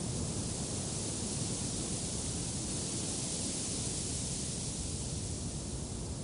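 Wind blowing steadily, an even rush of noise with a low rumble underneath.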